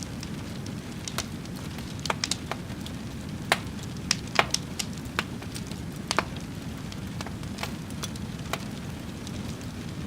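Wood fire crackling: a steady low rumble with scattered sharp pops, thickest between about two and six seconds in.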